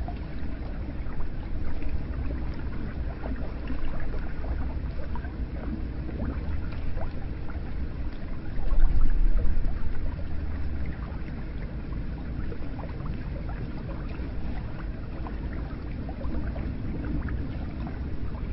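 Hot spring water pouring and splashing into a bath: a steady rush with many small splashes and a low rumble, swelling briefly about halfway through.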